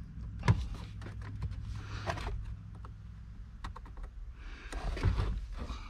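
Scattered light clicks and scraping of plastic parts being handled: a gauge cluster's plastic lens being worked at to see if it will come off, which it won't, as it is glued in place. The sharpest click comes about half a second in, with a longer rustling scrape near the end.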